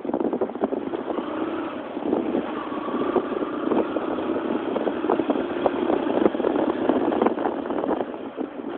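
Motorcycle running on the road during a ride, with irregular buffeting knocks on the microphone.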